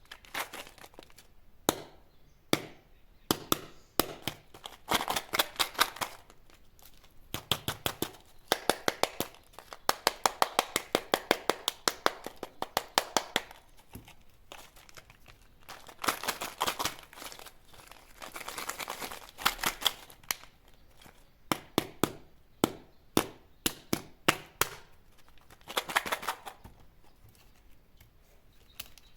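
Crinkly plastic candy wrappers being handled and torn open, in bursts of rapid crackling with short pauses between.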